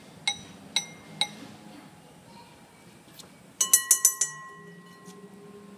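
A small glass-like object struck lightly so that it rings: three separate taps in the first second and a half, then a quick flurry of about six taps a little past the middle, their clear ringing tone lingering afterwards.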